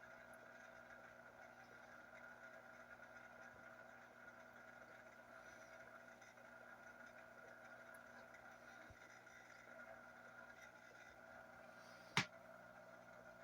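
Faint, steady hum of running aquarium equipment, with one sharp click about twelve seconds in.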